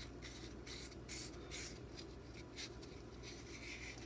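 Rolled-up 800-grit sandpaper rubbed back and forth in a knife's small relief hole: faint, quick scratchy strokes about two a second.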